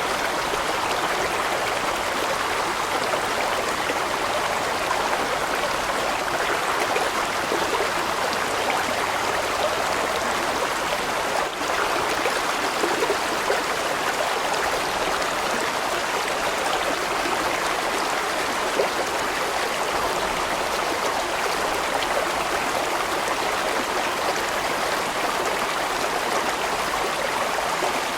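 Large mountain stream flowing over rocks: a steady rush of water with gurgling, unchanging throughout.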